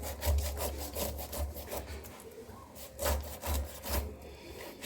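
A knife cutting away the rind of a pineapple: a run of short, rasping strokes, with a few louder ones a little past the halfway point.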